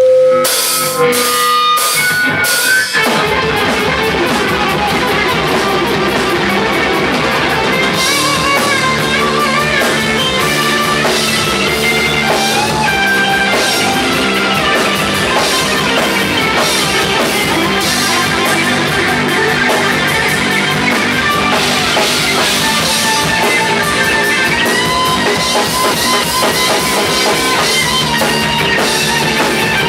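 Live rock band playing an instrumental passage: electric guitar lead notes held and bent over a drum kit. The first few seconds are sparse struck notes, then the full band with drums comes in about three seconds in.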